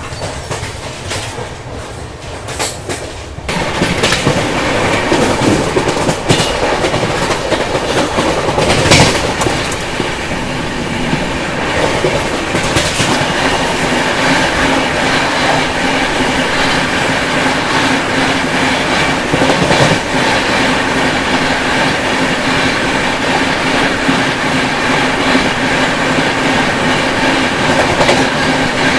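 Running noise of a moving express passenger train: wheels clattering over the rail joints with a steady rumble and rush. It is duller for the first few seconds, then loud and open from about three and a half seconds in, with wind rush and a goods train of open wagons passing close alongside on the next track, and a few sharp clanks.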